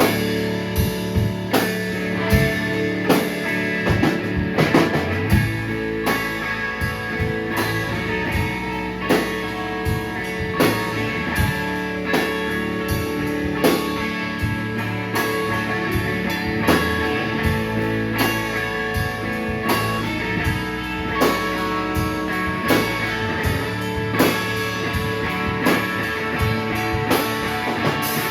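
Live rock band playing an instrumental passage: electric guitar and drum kit with steady drum hits.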